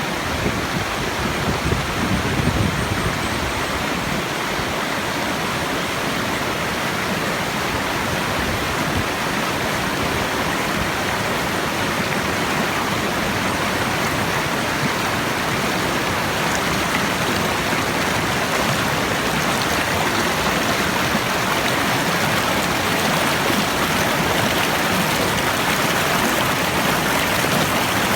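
Forest stream flowing, a steady rushing of water.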